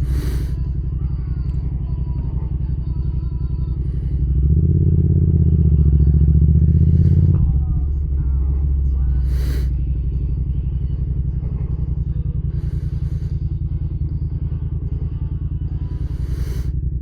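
Yamaha MT-07 parallel-twin motorcycle engine running under way. It gets louder for about three seconds near the middle as the revs rise, then settles back to a steady cruise.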